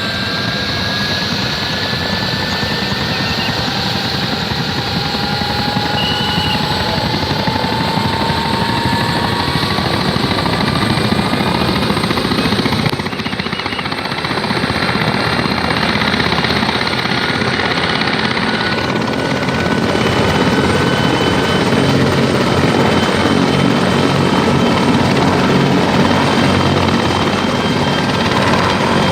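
Helicopter running overhead: a steady rotor and engine noise with high whining tones that slowly glide in pitch, growing a little louder in the second half.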